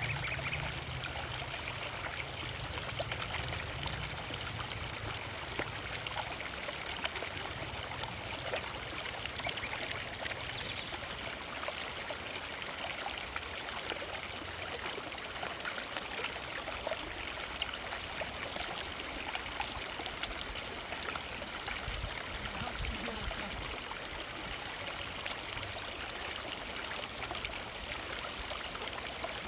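A forest river flowing steadily over stones, a continuous rushing and splashing with small trickles and gurgles.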